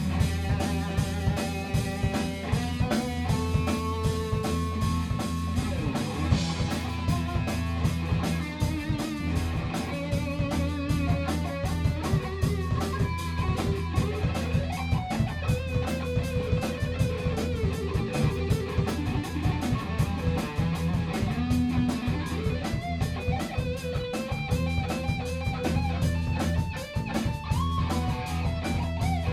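A rock band plays live: electric guitar over bass guitar and a steady drum-kit beat. The guitar carries a lead line with bending, wavering notes.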